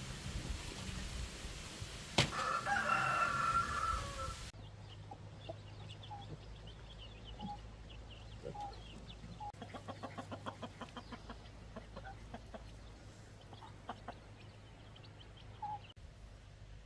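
A rooster crows once, starting about two seconds in. After that come faint scattered chirps and a short run of rapid pulses over a low steady hum.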